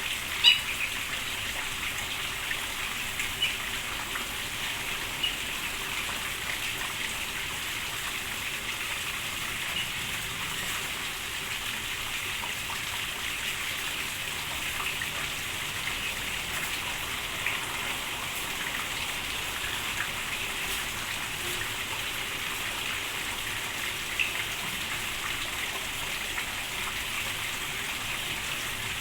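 Steady rain falling, an even hiss with a few brief sharp sounds standing out now and then.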